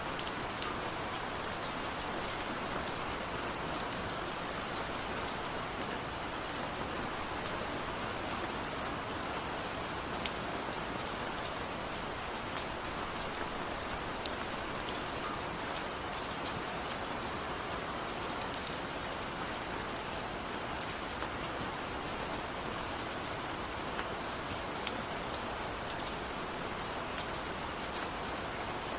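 Steady rain falling on surfaces, an even hiss with many individual drops ticking.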